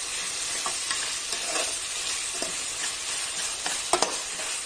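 Tomato-onion masala sizzling in oil and ghee in an aluminium pressure cooker, stirred with a metal slotted spatula that scrapes against the pot, with a sharper scrape about four seconds in.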